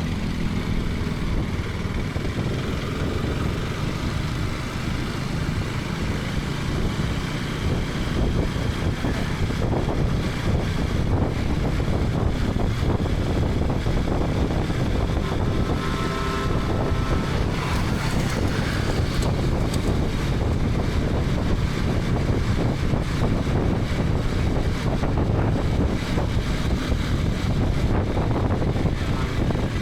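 KTM 250 Adventure's single-cylinder engine running steadily at riding speed, with wind rushing over the helmet-camera microphone. A short tone from another source sounds about sixteen seconds in.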